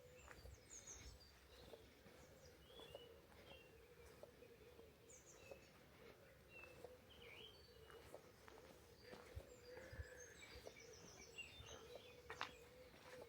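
Quiet rural ambience: faint, scattered chirps of songbirds over a faint steady hum.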